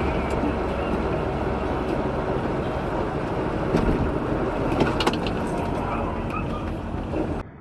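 Heavy-equipment engine running steadily, with a few sharp knocks about four to five seconds in. The sound cuts off abruptly just before the end.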